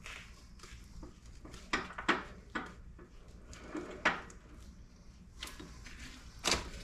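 Metal engine parts knocking and clinking on a workbench, about six separate knocks spread through a few seconds, as the connecting rod is worked out of a Wacker Neuson rammer's WM100 engine.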